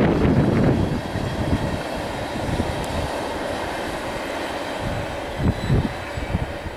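Loaded coal hopper cars of a freight train rolling past on the rails: a steady rumble of wheels on track that drops in level about a second in.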